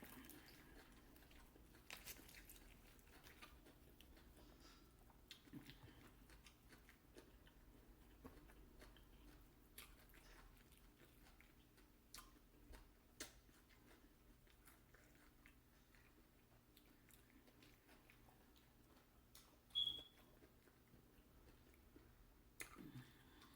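Faint chewing of fried chicken, with scattered soft clicks and mouth sounds. A short high-pitched chirp sounds once, a few seconds before the end.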